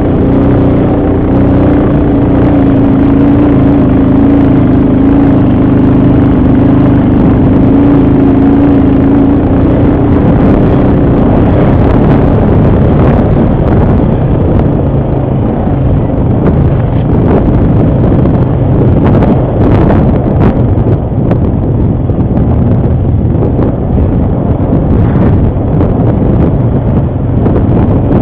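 ATV engine running loud and close while the quad is ridden, with a steady drone for about the first ten seconds. After that it turns rougher and more uneven, with scattered knocks and rattles from the machine over rough ground.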